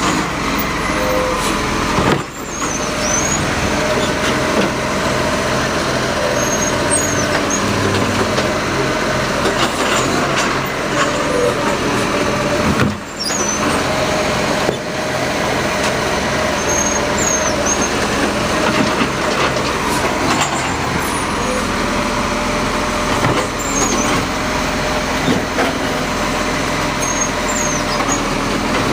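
Garbage truck running close by: a loud, steady engine and mechanical noise, dipping briefly twice.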